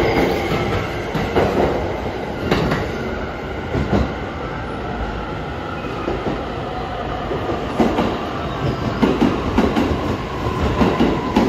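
E261 series electric limited-express train moving through a station, its wheels clicking over rail joints and points over a steady rumble, with the clicks coming thicker near the end.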